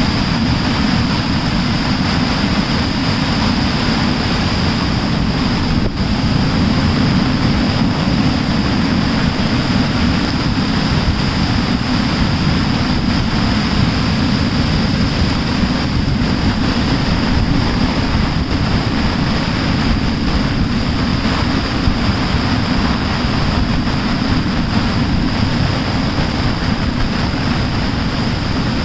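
Mountain stream in spate after a cloudburst: a loud, steady rush of floodwater with a deep low rumble.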